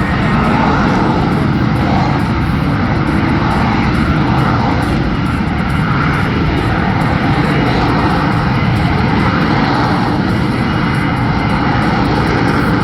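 Jet engine of an F-35B fighter, a loud, steady noise that neither rises nor falls.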